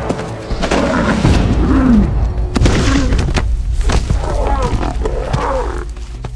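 Lions growling in a series of short, rough calls during a struggle with a buffalo, one call falling in pitch, broken by several sharp knocks. A low music drone runs underneath.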